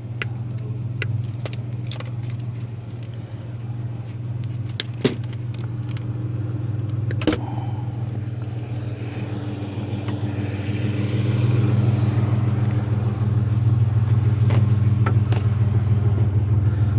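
Vehicle engine idling steadily, a low hum that grows louder a little past the halfway point. Scattered light clicks and knocks sound over it.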